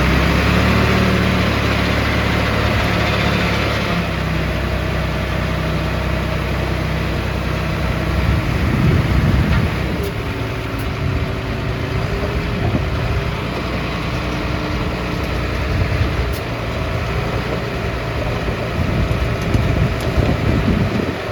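Heavy diesel earth-moving machinery running, a steady low engine rumble that grows louder and rougher for a couple of seconds around eight to ten seconds in.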